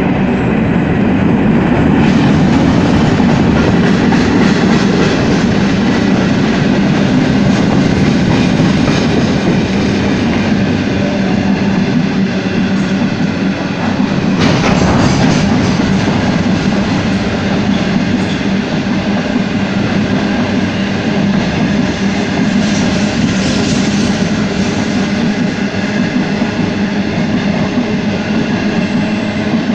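Freight train of cement wagons rolling past at speed: a steady rumble of steel wheels on rail with some clatter over joints, and a brief louder burst about halfway through.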